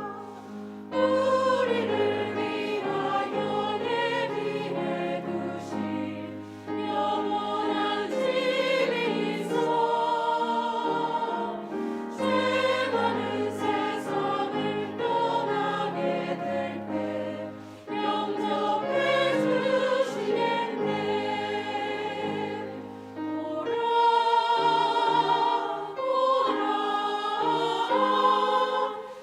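Church choir singing a slow hymn in held chords, phrase by phrase, with a short breath between phrases every five or six seconds.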